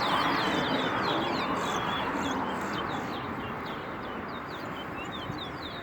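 Small caged songbirds singing a rapid, continuous string of short, high, down-slurred chirps and whistles, over a steady background noise.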